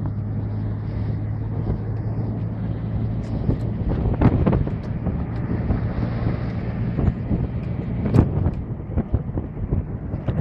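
A vehicle engine running steadily with wind noise on the microphone, with a few knocks, the loudest about four and eight seconds in; the engine hum fades near the end.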